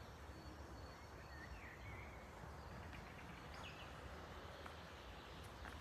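Faint outdoor ambience: a steady low rumble with a few faint bird chirps between one and two seconds in.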